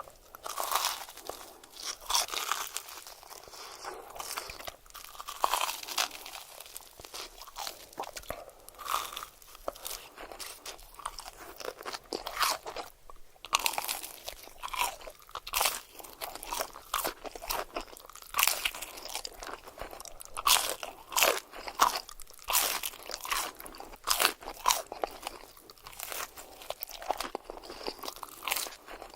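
Close-miked crunching and chewing of crunchy food: sharp, irregular crackles from bites and chews, with no talking.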